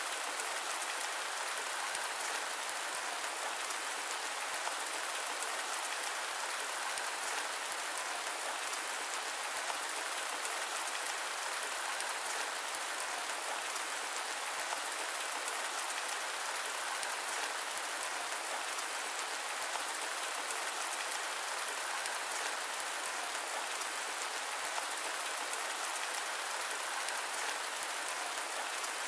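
Steady rain falling, a dense even hiss of drops without thunder, mixed with white noise.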